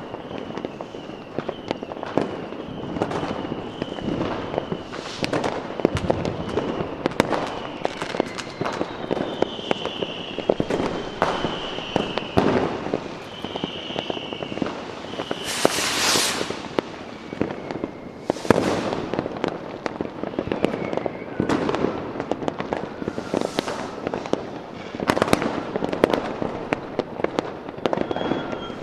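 Fireworks going off densely, a continuous run of bangs, pops and crackles. A high, wavering whistle runs through the first half, and a loud hissing burst comes a little past the middle, with a smaller one soon after.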